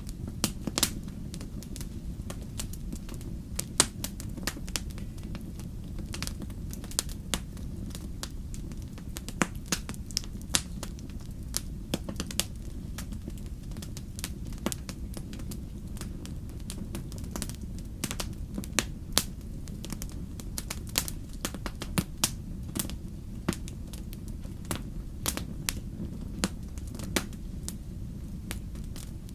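Wood campfire crackling, with sharp irregular pops and snaps, several a second, over a steady low rumble.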